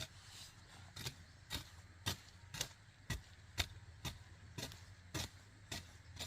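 A steady series of sharp knocks or strikes, about two a second, evenly spaced, over a low steady hum.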